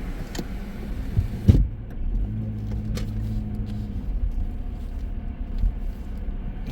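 Car engine idling heard from inside the cabin, a low rumble. About a second and a half in there is a thump, after which the outside hiss drops away. A steady low hum runs from about two to four seconds in.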